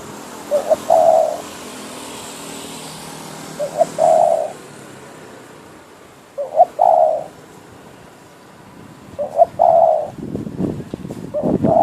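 Spotted dove calling, a caged decoy bird: a short coo phrase every two to three seconds, each a quick note or two leading into a longer coo, five phrases in all. A low rumbling noise joins in near the end.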